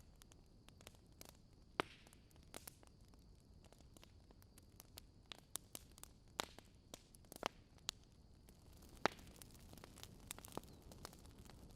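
Fire crackling: irregular, scattered pops and snaps over a faint hiss, with sharper pops about two seconds in, past six seconds and about nine seconds in.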